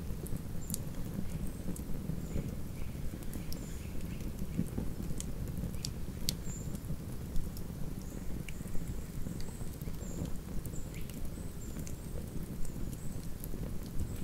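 Wood campfire burning: a steady low flutter of flames with scattered sharp crackles and pops at irregular intervals.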